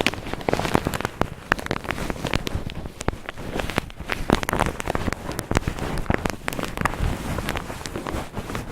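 Cotton balls rubbed and squeezed against the microphone, making a dense, irregular scratchy crackling.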